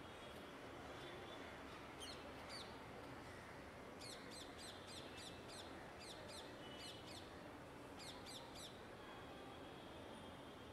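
Small birds chirping in several bursts of quick, high, falling notes, the first about two seconds in and the longest run a couple of seconds later, over a faint steady hum of distant city traffic.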